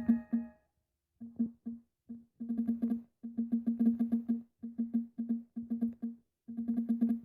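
Background music: a plucked string instrument repeating one low note in short rhythmic runs, with brief pauses between the runs.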